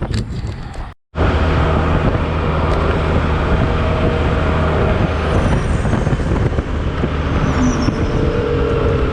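Honda Silver Wing maxi-scooter engine running steadily under way, with heavy wind and road noise. The sound drops out completely for a split second about a second in.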